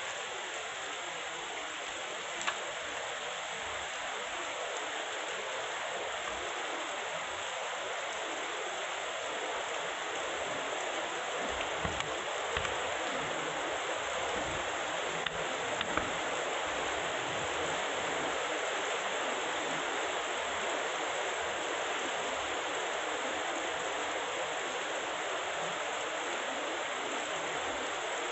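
Heavy rain pouring down steadily, growing slightly heavier partway through, with a few sharp clicks.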